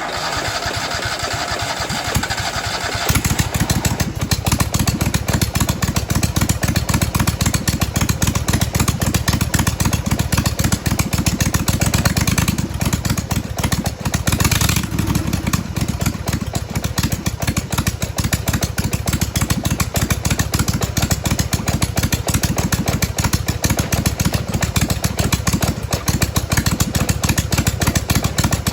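Twin-cylinder engine of a racing lawnmower running on open exhaust with no mufflers, its governor removed. It starts abruptly, with a hissier sound for the first few seconds, then settles into a steady, dense run of firing pulses.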